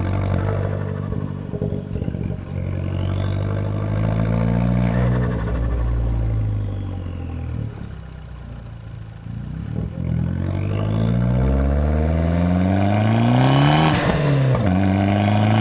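Fiat 500 Abarth's turbocharged 1.4-litre four-cylinder engine revving up and down, easing off in the middle, then climbing hard in pitch to its loudest near the end, where a short sharp burst of hiss cuts in.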